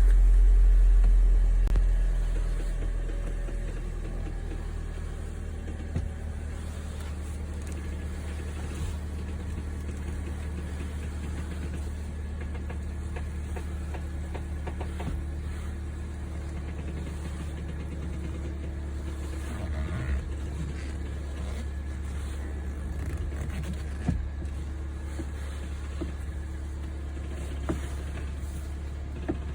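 Toyota Voxy (ZRR70) engine idling with a steady low hum, louder for the first couple of seconds before settling. Several short clicks or knocks sound over it, about six seconds in, around twenty and twenty-four seconds, and twice near the end: the abnormal noise that turning the steering wheel brings on.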